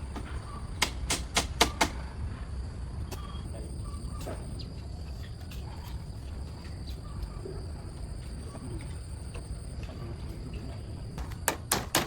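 Two quick runs of sharp knocks, about three a second, from a hand tool striking wood: one about a second in and another near the end, over steady low background noise.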